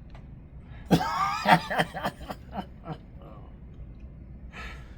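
Laughter: a loud burst about a second in, then a string of short chuckles that die away a couple of seconds later.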